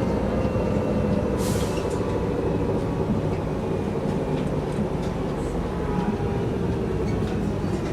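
Mercedes-Benz O405 N² low-floor city bus with a Voith automatic gearbox, heard from inside while it drives: a steady diesel engine and drivetrain drone. A short hiss comes about one and a half seconds in, with a few light clicks.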